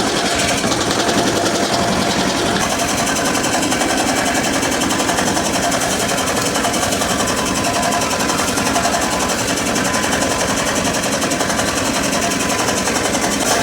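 Mechanical power hammer pounding hot axe steel in a fast, steady rhythm of blows.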